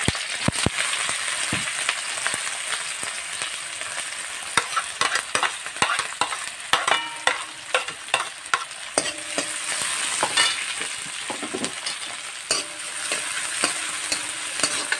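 Chopped onions and chillies sizzling in hot oil in a wok. A metal ladle scrapes and clinks against the pan as they are stirred, with more frequent knocks from about four seconds in.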